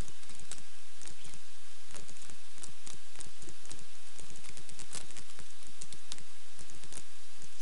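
Rapid, irregular clicking of a computer mouse and keyboard over a low steady hum.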